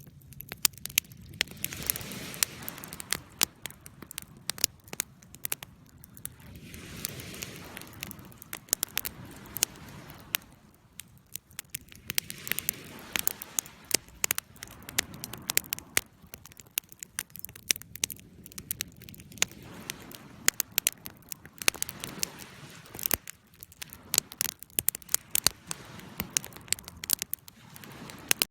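Wood fire crackling in a fireplace, with frequent sharp pops and snaps, over a soft rushing wash of ocean waves that swells and fades about every five seconds.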